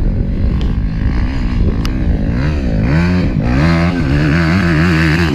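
A motor vehicle engine running under load, its pitch rising and falling repeatedly as the revs go up and down.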